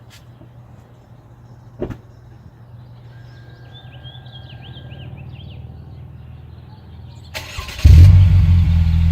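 2015 Chevrolet Malibu's four-cylinder engine started near the end: a brief crank, then it catches and runs loud and steady through a dual Magnaflow exhaust with slash-cut tips. A single click about two seconds in comes before the start.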